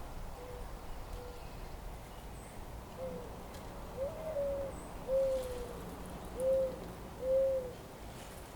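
A bird calling in a series of short, low, arched notes. The notes are faint at first and louder from about three seconds in, with five clear calls in the second half, over a steady low rumble of outdoor noise.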